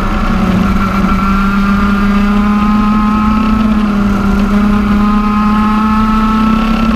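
TM 125 cc two-stroke OK-class kart engine running hard at high revs. Its pitch climbs slowly, eases off around the middle, then climbs again as the kart accelerates.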